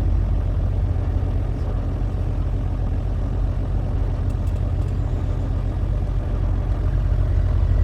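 Truck engine running: a steady low rumble without change.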